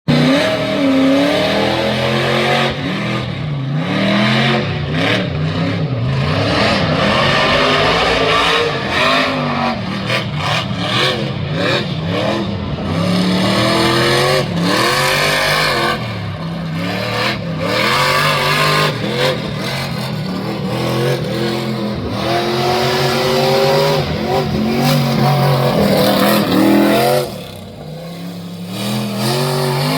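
Monster truck engine revving hard, its pitch rising and falling over and over, with a short drop in level near the end.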